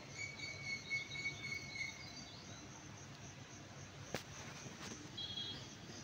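A bird calling for about two seconds, then again briefly near the end, over a steady high insect trill. A single sharp click about four seconds in.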